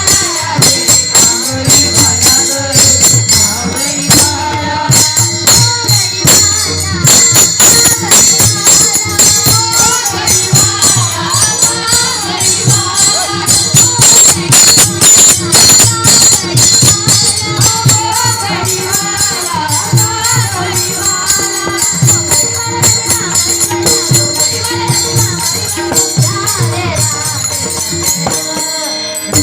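Marathi gaulan devotional song: a voice singing the melody over a steady beat of bhajan percussion with jingling, shimmering metal.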